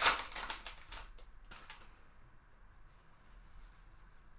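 Trading cards and their pack wrapper being handled, a brief rustle that is loudest at the very start and dies away within about a second, with a couple of light taps after it; then faint room tone.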